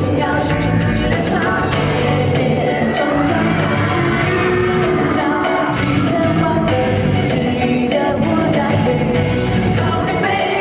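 Live pop-rock concert music: a male group singing over loud band backing with a steady drumbeat and cymbals.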